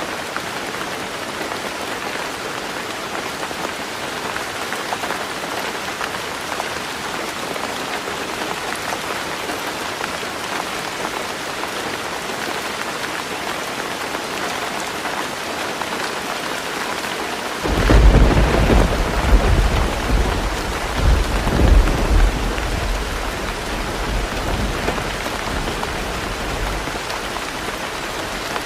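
Heavy rain drumming steadily on a tin roof. About two-thirds of the way in a thunderclap breaks suddenly into a loud, low rumble that rolls in several surges for a few seconds and then fades away under the rain.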